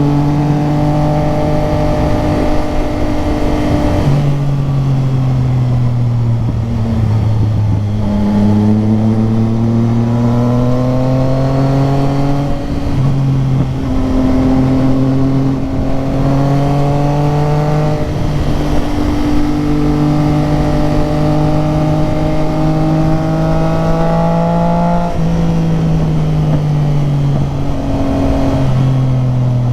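Motorcycle engine running on the road. Its pitch rises under throttle and drops abruptly several times as the revs fall.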